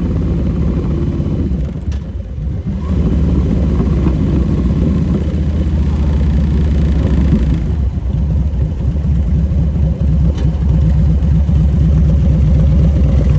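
Motorcycle engine running under way. It eases off briefly about two seconds in, then pulls steadily again.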